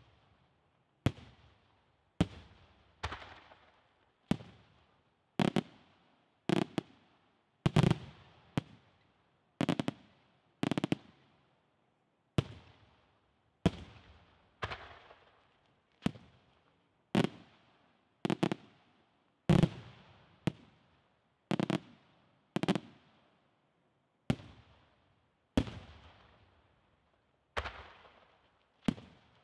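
Aerial firework shells bursting overhead in a steady sequence of about thirty loud bangs, roughly one a second and now and then two in quick succession. Each bang tails off in a short rolling echo.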